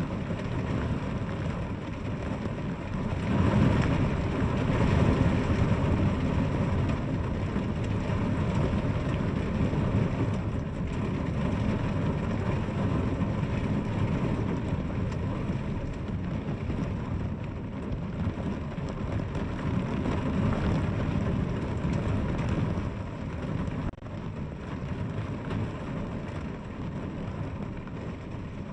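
Steady rainfall, with a deep low rumble in the mix; it grows louder for a few seconds about three seconds in, then settles back.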